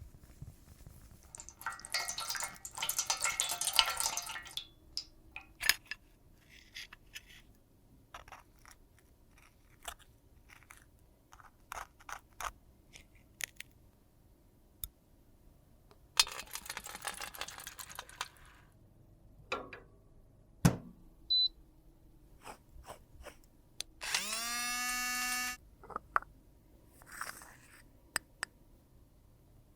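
Makeup being worked by hand: scratchy scraping and crunching of powder or product in two stretches, with scattered taps and clicks of tools and containers. About 24 s in, a small motor whirs briefly, rising in pitch and then holding steady for about a second and a half.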